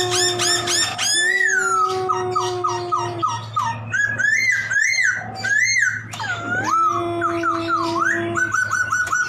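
Poksay (laughingthrush) singing a varied, chattering song: quick runs of repeated whistled notes and rising and falling slurs, with a long steady low note held underneath twice.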